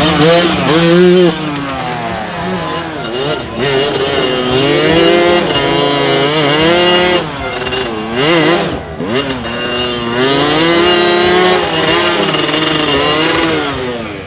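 Dirt bike engine revving hard and unevenly, its pitch rising and falling repeatedly as the rider works the throttle, with brief drops in loudness between bursts of revs.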